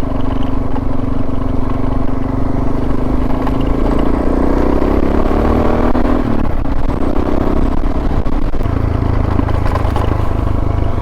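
Suzuki DR650's single-cylinder four-stroke engine running while the bike is ridden, its note climbing as it accelerates and then dropping suddenly about six seconds in, before settling steady again.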